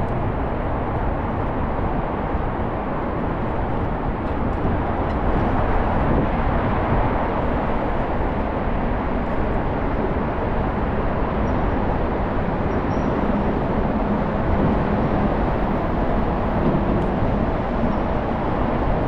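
Steady wind and road noise of a moving scooter ride, an even rumble with no breaks and no distinct events.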